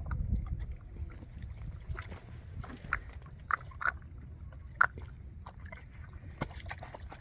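Animals slurping and smacking as they drink milk, irregular short wet clicks and gulps over a steady low rumble.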